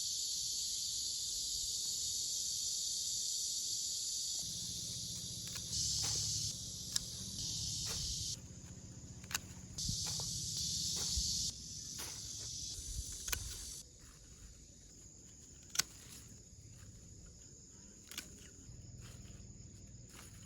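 Grass insects such as crickets chirring in a steady high-pitched chorus that cuts in and out several times in the first half, then drops away to a quieter stretch broken by a few sharp clicks.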